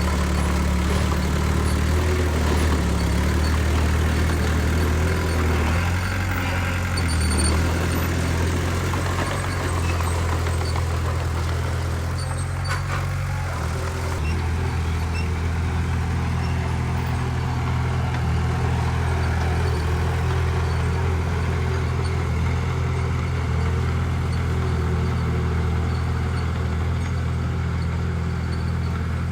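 Heavy diesel engine of earthmoving machinery running steadily, with small shifts in engine speed now and then.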